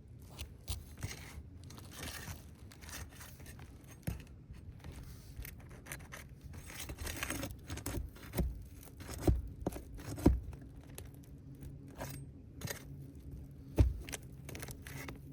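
Flat bar scraping and prying under asphalt shingles to work a roofing nail loose, with rustling and scraping of the gritty shingle surface and scattered sharp metal knocks, the loudest about nine, ten and fourteen seconds in.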